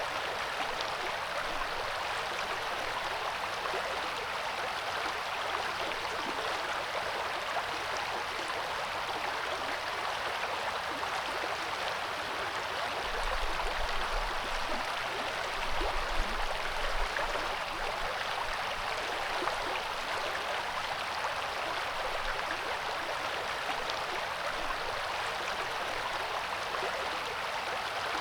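Coeur d'Alene River flowing, a steady rush of water, with a few brief low rumbles around the middle.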